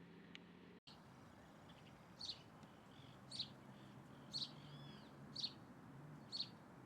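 A bird calling: five short, sharp high calls, about one a second, with fainter arched notes in between.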